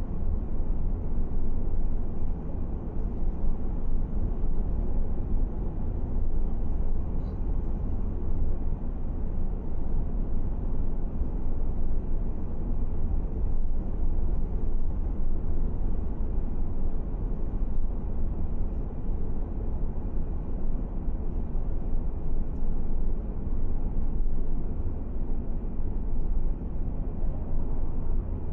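Steady low rumble of a car driving, road and engine noise heard from inside the moving vehicle.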